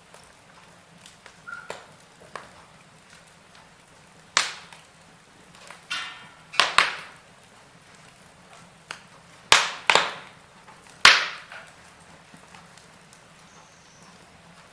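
Wood fire burning in a fireplace: faint scattered crackles and about half a dozen sharp, loud pops through the middle stretch.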